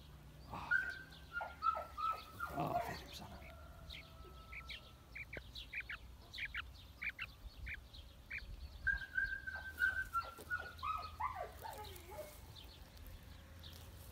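A bird singing outdoors: a whistled phrase that opens on a held note and steps down in pitch, then a run of short, evenly spaced chirps, then the stepped-down phrase again near the end.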